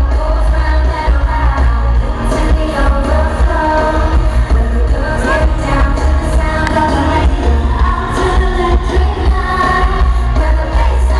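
Live pop song played loud in an arena: female group vocals over a band with a heavy, booming bass line that runs throughout.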